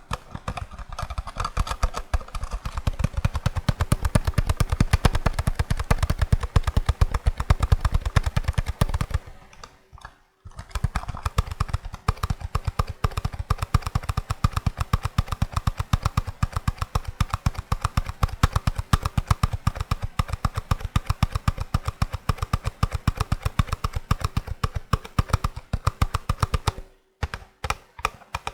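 Rapid, continuous tapping on a small empty cardboard cream box, with a short pause about ten seconds in and another near the end.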